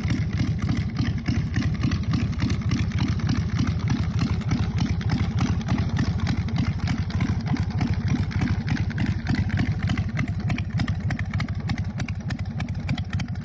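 Custom chopper's 117 cubic inch S&S EVO V-twin, fed by a Super G carburetor, idling steadily with an even, regular pulsing beat.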